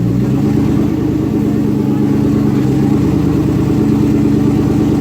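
Twin-turbocharged Ford Coyote 5.0 V8 running on a dyno at a steady engine speed, its pitch holding level without a rise in revs.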